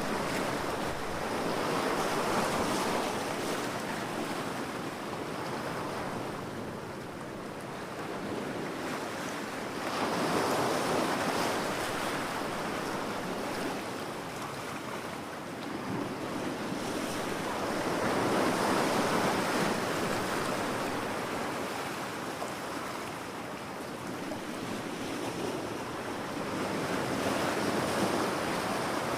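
Ocean waves breaking on a beach, the surf rushing in and washing back in slow swells about every eight seconds.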